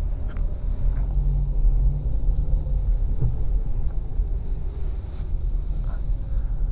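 Car moving at low speed, heard from inside the cabin: a steady low rumble of engine and road noise.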